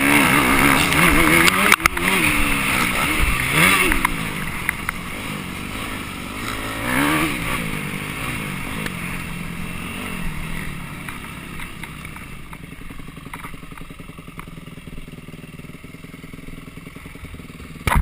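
Off-road motorcycle engine revving up and down several times on and off the throttle, with one more rise about seven seconds in, then running lower and quieter for the rest of the time.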